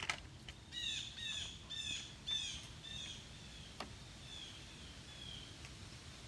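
A bird singing a series of short, high, falling chirps, about two a second, growing fainter after about three seconds. A sharp click sounds right at the start and another a little before four seconds in.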